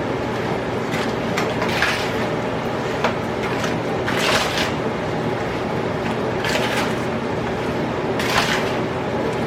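Hands mixing raw chicken wings with their seasonings in a bowl, giving short wet squishing and rustling sounds every second or two over a steady hum.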